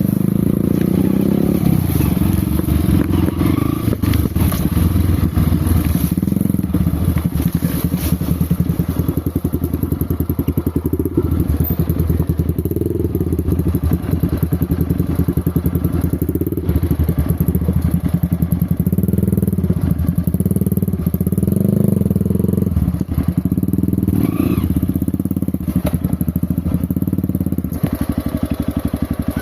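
Off-road motorcycle engine running at low to mid revs, rising and falling as it is ridden slowly through thick brush, with occasional knocks and clatter.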